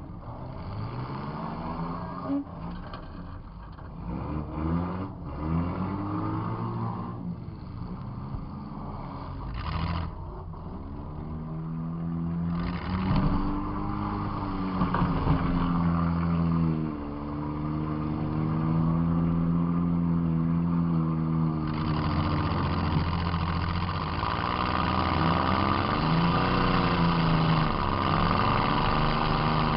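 Demolition derby car's engine, heard from inside the car, revving up and down over and over as it drives. A few short bangs come in the first half, likely from hits.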